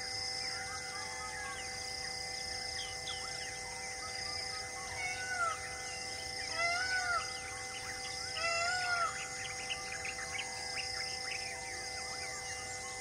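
Forest birds calling: many short chirps and a repeated arched whistled call, loudest about five, seven and nine seconds in, over a steady drone of held high tones.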